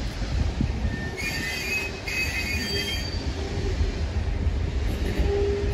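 Railway carriages rolling past on curving track, a steady low rumble with high-pitched wheel flange squeal for about two seconds starting about a second in, then a lower squealing tone toward the end.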